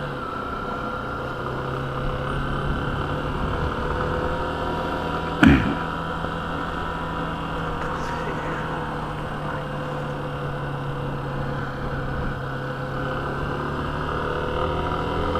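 Yamaha motorcycle engine running steadily at low road speed, with one short knock about five and a half seconds in.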